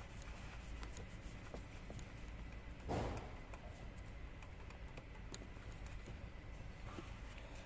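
Light clicks and taps of hand tools and parts being handled over a steady low background hum, with one brief louder handling noise about three seconds in.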